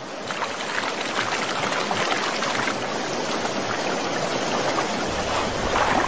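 River water flowing steadily around a wading brown bear, with small splashes and drips.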